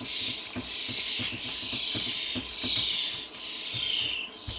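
Quick repeated scratching or scrubbing strokes on an amplifier circuit board, about two a second, each a short hiss that falls in pitch, with light knocks of handling under them. The board's stains are being rubbed to test whether they are sticky spill residue or dried flux.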